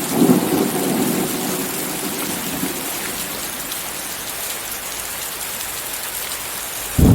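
Steady heavy rain with a low thunder rumble dying away over the first few seconds. Just before the end a new, louder roll of thunder breaks in suddenly.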